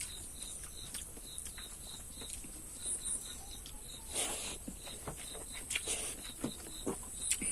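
Close-up eating sounds: irregular wet chewing and lip-smacking of someone eating rice with curry. A faint high ticking, about four a second, runs steadily behind it.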